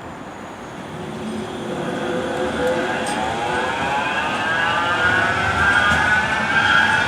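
Manchester Metrolink M5000 tram's electric traction motors whining, a layered tone rising steadily in pitch as the tram accelerates away, over rumbling running noise.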